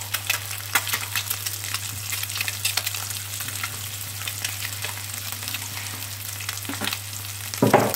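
Quail eggs and chopped garlic frying in butter and oil in a pan: steady sizzling with many fine crackles and pops, over a low steady hum. A short, louder bump comes near the end.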